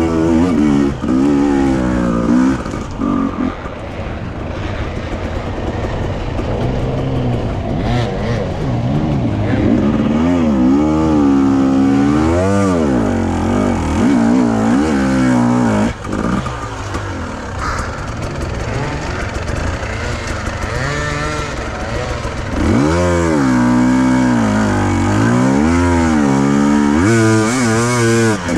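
Enduro motorcycle engine revving up and down again and again as the throttle is opened and closed, with the hardest pulls near the middle and toward the end.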